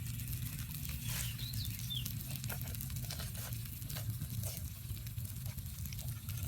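Frying eel sizzling on a hot tile, with scattered crackles and pops over a low steady hum.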